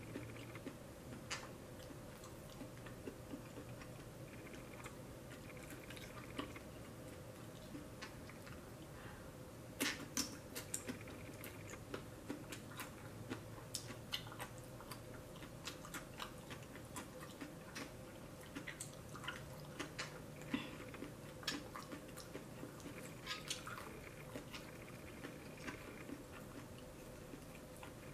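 Person chewing a shrimp and rice meal, with wet mouth sounds and many short sharp clicks, the loudest about ten seconds in and again near twenty seconds. A faint steady hum underneath.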